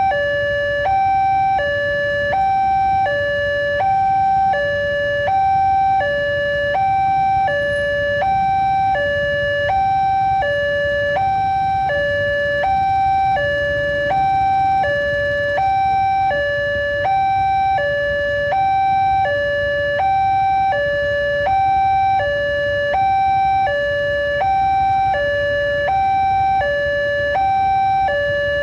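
Electronic railway level-crossing warning alarm sounding a steady alternating two-tone signal, a higher and a lower note swapping about every three-quarters of a second without a break. A low rumble runs underneath.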